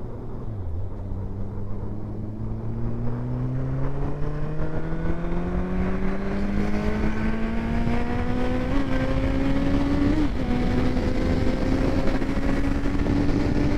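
Honda CBR650's inline-four engine with an aftermarket exhaust, its note rising steadily as the bike accelerates for about nine seconds. About ten seconds in the pitch drops briefly, as at a gear change, then starts climbing again.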